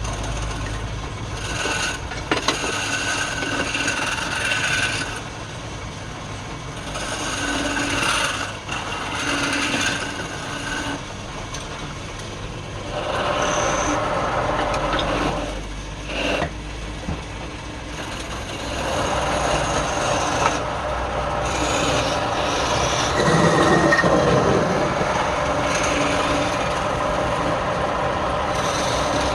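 Woodturning on a lathe: a tool or abrasive scraping the spinning wood with a rasping sound. It comes in stretches of a few seconds with short breaks between them, and the longest runs through most of the second half.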